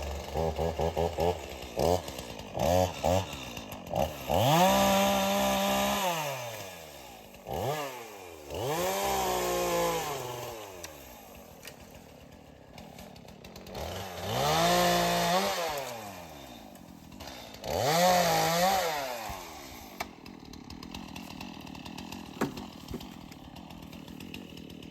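Chainsaw blipped a few times, then run up to full throttle four times for a few seconds each, its pitch climbing and then falling away as each cut ends, while felling a small tree. It settles to a steady idle near the end.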